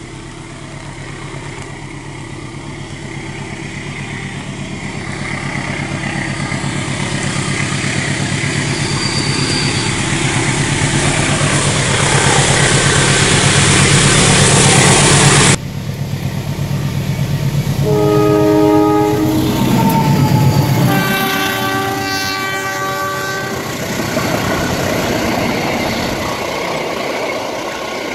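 Diesel-electric locomotive of a passenger train climbing a grade, its engine rumble growing steadily louder as it comes closer. After a cut, the train horn sounds a short blast and then a longer multi-tone blast. Near the end the carriages roll past with wheel clatter.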